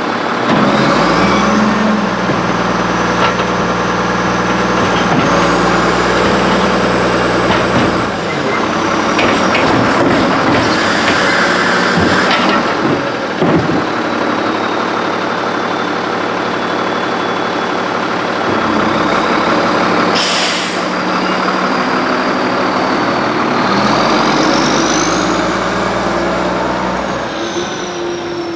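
Freightliner Condor garbage truck engine running steadily, with a high whine that rises and falls near the start and again near the end. Air brakes hiss sharply twice, about twelve and twenty seconds in.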